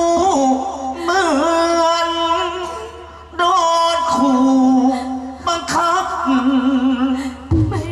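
A solo voice singing long, wavering, drawn-out notes in phrases: a sung verse in Thai likay folk theatre. Low thuds come in near the end.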